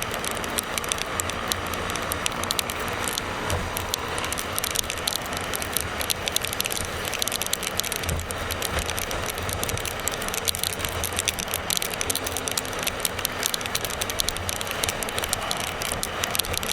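Motorcycle on the move: steady wind and road noise over a low engine hum, with a dense crackle of small ticks throughout.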